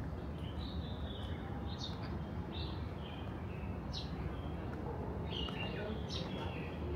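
Small birds chirping: short high calls and brief warbled phrases, a second or two apart, over a steady low hum of background noise.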